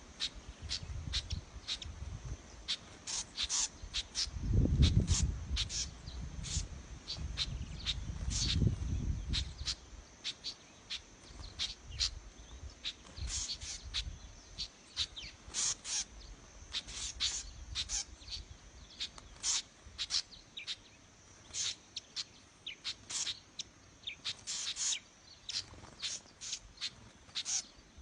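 Small birds giving short, sharp alarm chirps over and over, the calls of birds mobbing a snake. A low rumble runs under the calls for about the first ten seconds.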